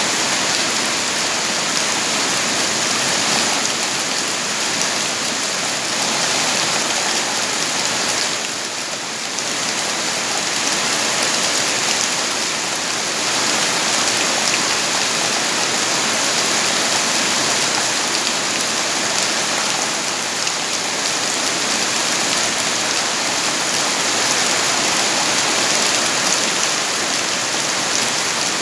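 Rain falling steadily, an even dense hiss, dipping briefly about nine seconds in.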